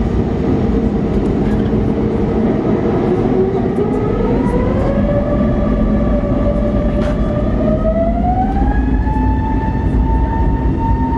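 Airbus A320neo jet engines spooling up for the takeoff run, heard from inside the cabin: a whine rising steadily in pitch over several seconds over a loud, steady rumble, then levelling off near the end.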